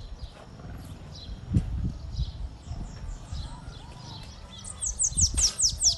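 Bananaquit singing: thin, high chirps scattered throughout, then near the end a quick run of about seven sharp, downward-sweeping notes, the loudest part. There is a low thump about one and a half seconds in, over a faint low rumble.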